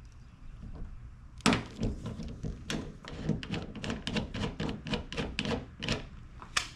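Irregular rapid clicking and light knocking of small metal tools and hardware being handled, several clicks a second.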